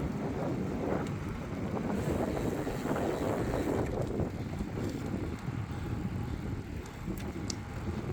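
Wind buffeting the microphone while riding a bicycle: a steady low rumble, with a faint click near the end.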